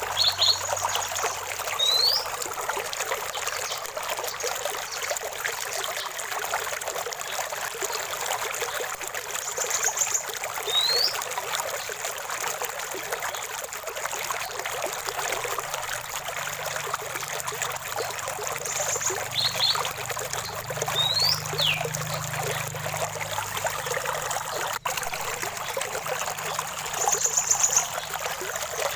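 Running water trickling steadily, as in a small stream. Birds call every several seconds over it: quick rising whistles and short high chirps.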